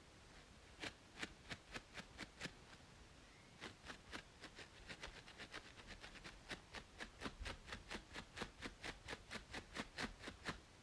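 Short, sharp scratching strokes on a braided scalp, from fingernails or a comb, about two to three a second with a brief pause near the start. Under them runs a steady white-noise hiss.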